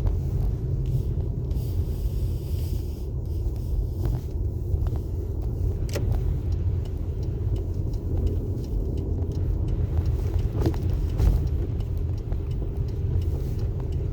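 A car driving, with a steady low engine and road rumble and a few faint clicks.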